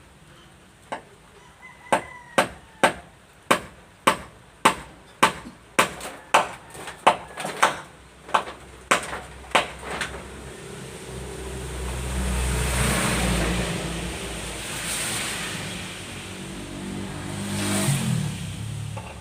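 Hammer driving nails into wood: about sixteen sharp strikes, roughly two a second, that stop about ten seconds in. After that comes a louder stretch of noise with a low rumble that swells and fades toward the end.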